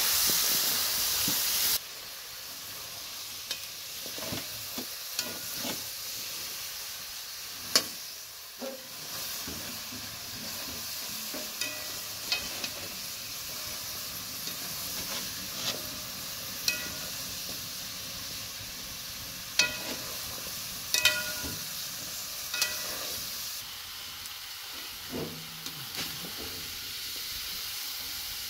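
Chicken feet frying in a metal wok, with a steady sizzle and a metal ladle stirring, scraping and clinking against the pan, a few strikes ringing briefly. A louder hiss cuts off suddenly about two seconds in.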